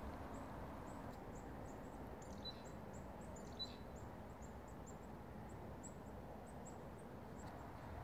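Small birds giving high, thin calls: short downward-sliding notes, two or three a second, with a couple of slightly lower, sharper chirps near the middle, faint over a steady low background hiss.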